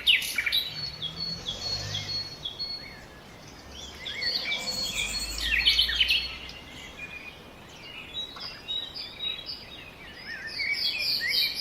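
Several songbirds chirping and singing, with a low rumble of outdoor noise swelling and fading about halfway through.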